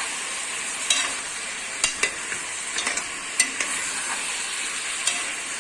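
Onions and beef frying in a pot with a steady sizzle, and a utensil clicking against the pot a few times as it is stirred.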